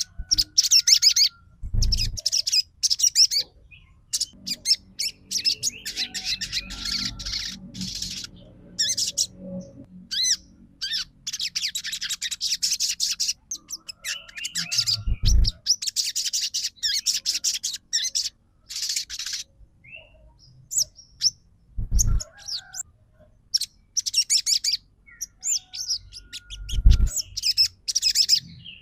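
Sogon song: fast, chattering, high-pitched chirps in repeated bursts a few seconds long with short pauses between. It is played as a lure to provoke a silent spotted sogon into singing. Brief low thumps sound now and then.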